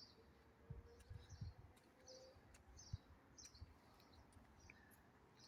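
Faint bird chirping: short high chirps repeated about twice a second over quiet outdoor background, with a few soft low thumps in the first second and a half.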